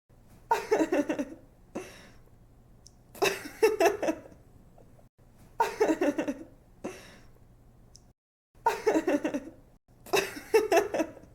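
A young woman laughing in five short bursts a couple of seconds apart, each a quick run of pulsed laughs.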